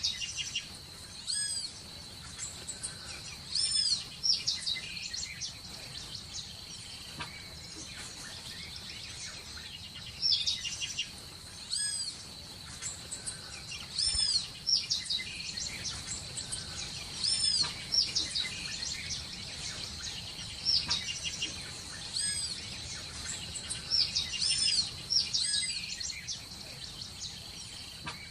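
Birds chirping in short clusters of quick arched notes every few seconds, over a steady high-pitched tone and a faint background hiss.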